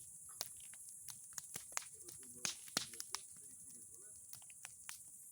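Bonfire of old boards and pine cones crackling, with irregular sharp pops and snaps, the loudest a little past halfway.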